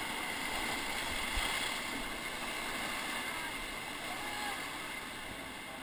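Steady rush of river water around a whitewater raft, easing a little near the end.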